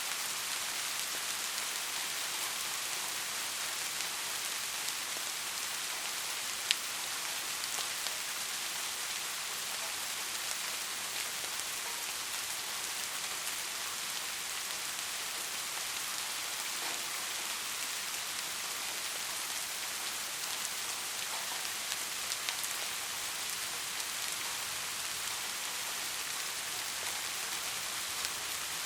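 Steady rain falling, an even hiss with fine ticks of individual drops and one sharper drop about seven seconds in.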